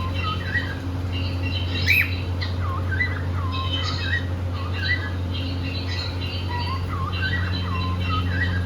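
Pet cockatiels chirping in short, repeated, swooping calls, over a steady low hum. There is a sharp click about two seconds in.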